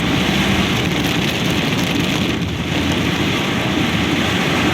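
Heavy downpour: rain falling hard in a steady, even hiss.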